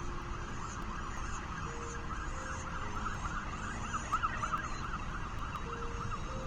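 Falcon chicks begging in the nest: a rapid run of short, rising-and-falling calls, about five a second, building in the middle and easing off, over a steady low background rumble.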